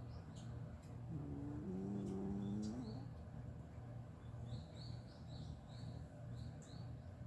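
A sleeping schnauzer's drawn-out snore with a humming tone, starting about a second in and lasting nearly two seconds. Small birds chirp several times, mostly in the second half.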